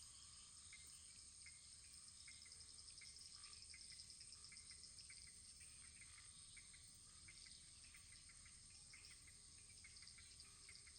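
Wood fire in a fireplace crackling faintly, with small irregular pops over a steady hiss.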